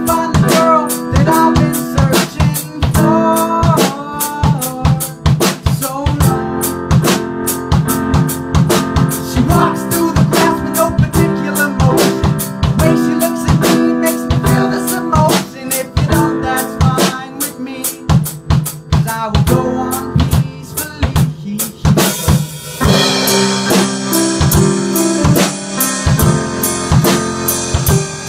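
Instrumental section of a piano-and-drums song: a drum kit keeps a steady beat with bass drum and snare under sustained chords. About 22 seconds in, the cymbals open up into a bright, washing crash that keeps ringing.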